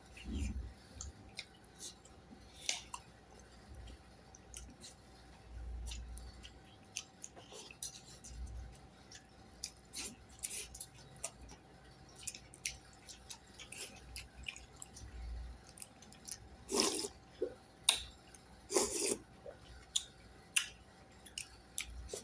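A person chewing and eating a meal close to the microphone: scattered wet clicks and smacks throughout, with two louder bursts near the end.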